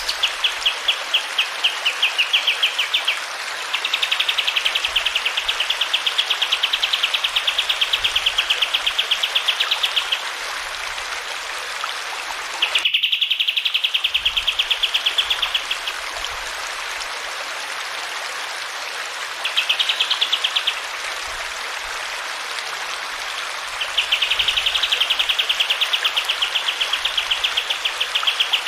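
Kapas tembak songbird singing in fast, rattling trills of several seconds each, with pauses between them, over a steady rush of running water. The sound breaks off abruptly for a moment about halfway through.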